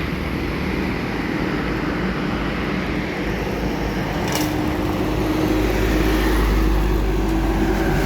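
Road traffic with heavy trucks passing: steady engine and tyre noise, with a brief high hiss about halfway through and a deeper engine rumble building in the second half.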